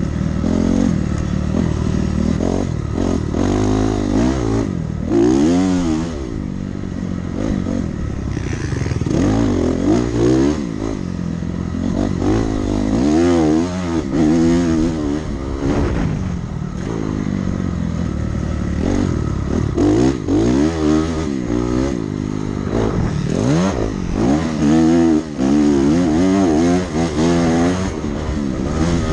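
Dirt bike engine revving hard and falling back over and over as it accelerates, shifts and chops the throttle around a motocross track.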